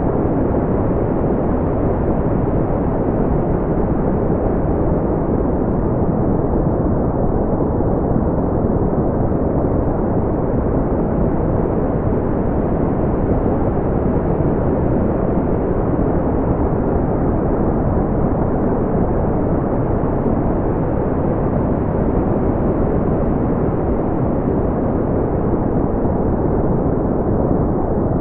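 Steady, deep brown noise: a smooth, even rumbling hiss weighted toward the low end, with the highs rolled off.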